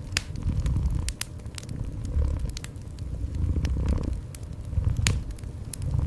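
A cat purring in low, rhythmic swells about every second and a half, over a wood fire crackling with frequent sharp pops. One pop about five seconds in is the loudest.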